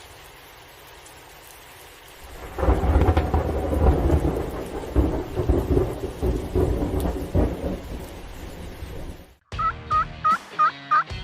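Rolling thunder with rain: a faint hiss, then a loud, uneven low rumble lasting several seconds. Near the end a wild turkey tom gobbles, a quick string of rattling notes.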